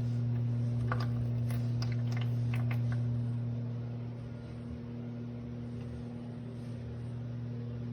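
Theo Klein Miele toy washing machine running with a steady low hum, with a few light clicks in the first few seconds.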